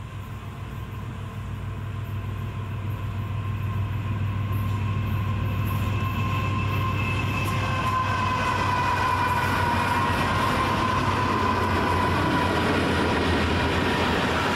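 Diesel-hauled train drawing near, its low steady rumble growing louder throughout. About six seconds in, a few thin high tones join it and drift slowly down in pitch, like wheels beginning to whine on the rails.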